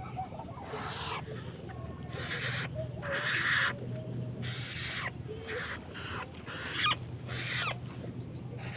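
White-browed crakes calling: a run of repeated harsh notes, a bit more than one a second, over a steady low hum.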